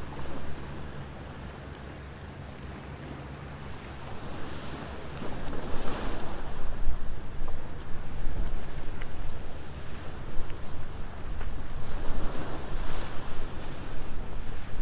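Ocean waves washing ashore, two surges swelling and fading about six and thirteen seconds in, with wind rumbling on the microphone and growing louder after a quieter first few seconds. A few faint crackles from a bonfire sit underneath.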